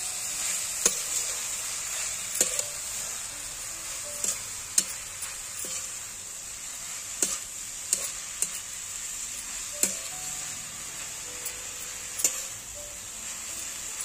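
Chopped chickpea greens sizzling in a steel kadai as a metal spatula stirs them. The spatula scrapes through the greens and knocks sharply against the pan at irregular moments, every second or two, over a steady frying hiss.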